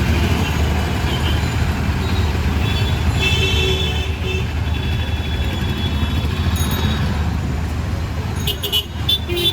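City street traffic: vehicle engines running with a steady low rumble, with voices mixed in.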